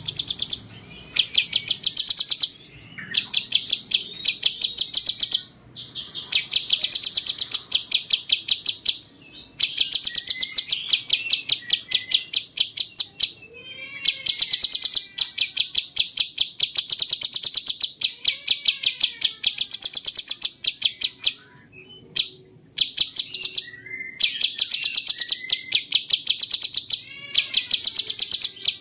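Cucak cungkok songbird singing in loud, rapid chattering runs of sharp high ticks, each run lasting a few seconds with short breaks between. Some lower down-slurred notes are mixed in, in the style the breeders call 'rasa jenggot', like a cucak jenggot.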